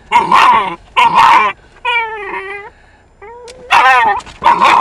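Small terrier whining and yipping in a string of short high-pitched calls, about six in all, with one longer whine about two seconds in that falls in pitch.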